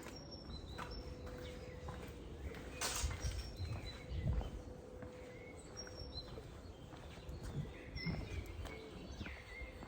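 Small birds chirping, short high calls scattered throughout, over a low outdoor rumble and a faint steady hum, with a single sharp click about three seconds in.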